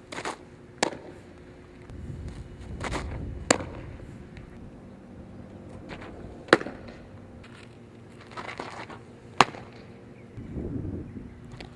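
Four sharp smacks of a softball about three seconds apart, each after a brief shuffle of movement, as in a repeated drill.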